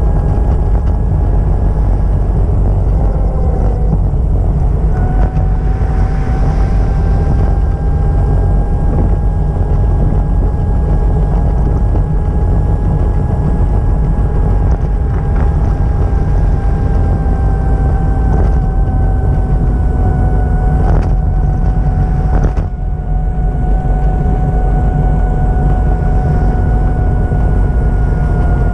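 A vehicle running with a loud, steady low rumble and a steady whine that drifts slowly lower, with a couple of short knocks about 21 and 22 seconds in.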